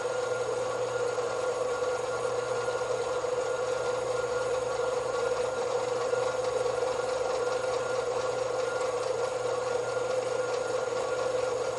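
Metal-cutting bandsaw running steadily as its blade cuts through a bar of A2 tool steel: an even whine over a low hum.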